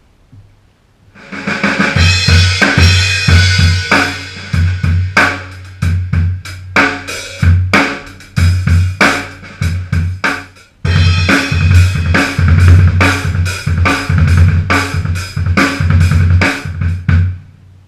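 Sonor drum kit played through a sound check: kick drum, snare and cymbals with hi-hat in a steady groove with fills. It starts about a second in and breaks off briefly a little past halfway before carrying on.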